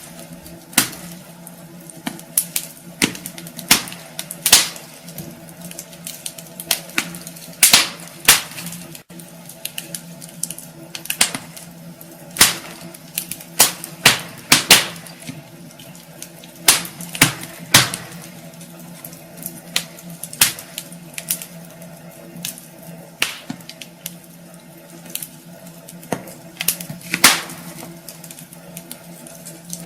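Wood fire crackling in a fireplace: irregular sharp pops and snaps over a steady hiss, with a faint steady low hum underneath.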